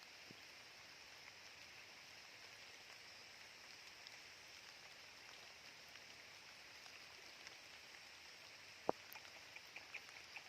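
Near silence: a faint steady high-pitched hiss, with one sharp click about nine seconds in and a few small ticks after it.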